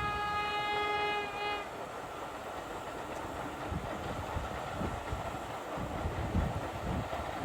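A narrow-gauge locomotive's whistle holds one steady note and cuts off under two seconds in, followed by the rumble and rail noise of the train running.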